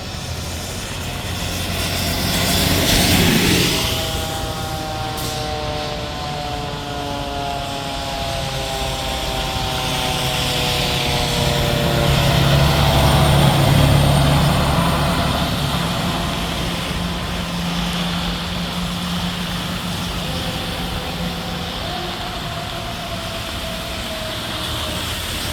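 Fire engine responding: a loud pass about three seconds in, then its siren tone gliding slowly down over several seconds. The diesel engine rumbles loudest around the middle, and a siren tone sounds again near the end.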